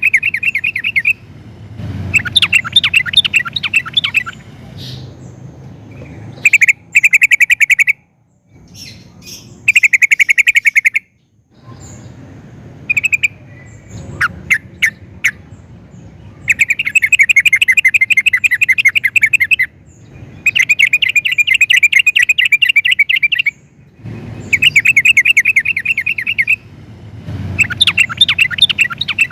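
Yellow-vented bulbul (trucukan) singing loud, rapid bubbling phrases of one to three seconds each, repeated about ten times with short pauses, and a few single notes near the middle.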